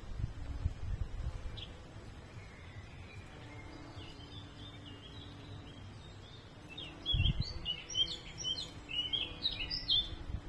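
Small songbird chirping and twittering in quick short notes, sparse at first and busier in the second half. Low gusts of wind on the microphone at the start and again partway through.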